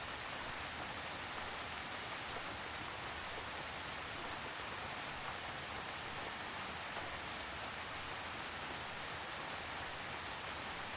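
Steady gentle rain, an even patter of drops on a surface with faint scattered tiny drop ticks.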